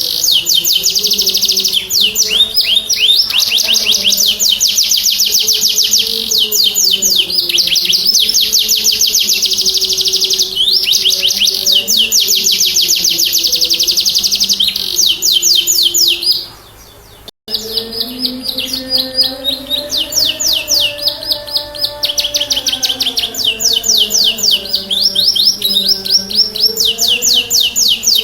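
Domestic canary singing in full song: long runs of very fast trills, with a brief break about two-thirds of the way through. A faint low wavering tone runs underneath.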